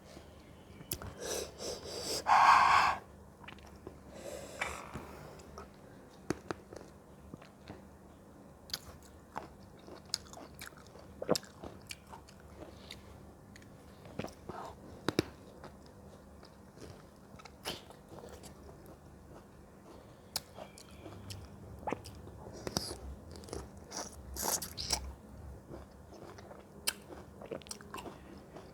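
Close-up sounds of fruit being bitten and chewed: scattered wet mouth clicks and smacks. A loud rushing burst comes about two seconds in, with softer ones near the end.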